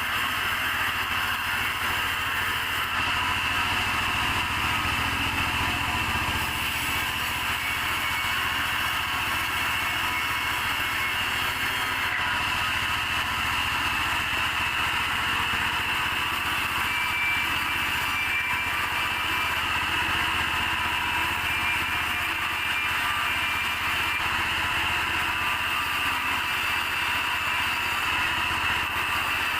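Sawmill machinery running steadily: a low engine hum under a continuous higher-pitched saw noise, with no break or change in pace.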